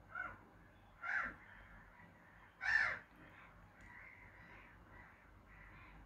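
A bird gives three short, harsh, rasping calls, the third the loudest, over faint distant bird calls from a wetland.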